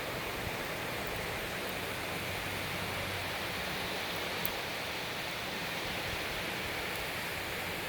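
Constant rain falling in a steady, even hiss.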